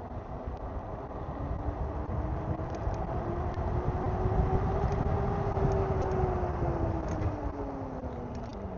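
A motor hum that slowly rises in pitch, peaks about halfway through and falls away again, over a dense low rumble, swelling louder in the middle and easing off near the end.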